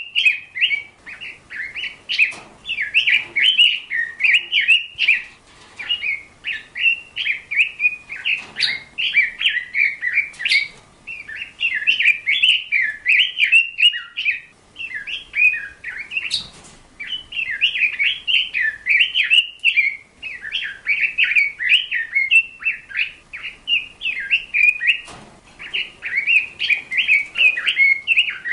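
Birds chirping and twittering without pause, a dense run of quick high chirps, with a few faint clicks or knocks in between.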